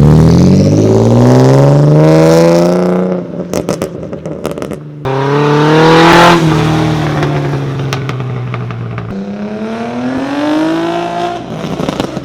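A car engine revving hard as it accelerates away, its pitch climbing through the gears. The pitch drops at a shift with a few clattering clicks about three and a half seconds in, climbs again to its loudest about six seconds in, then rises once more and fades.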